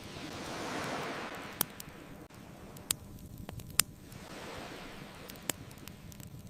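Ocean waves washing in, one swell of surf rising and falling in the first two seconds and a softer one near the middle, with a wood bonfire crackling: a few sharp pops, the loudest about four seconds in.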